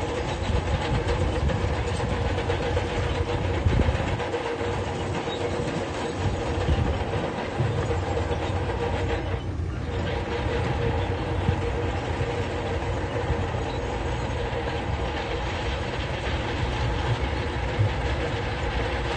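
Crawler bulldozer working, its diesel engine running steadily under a constant clanking rattle of steel tracks.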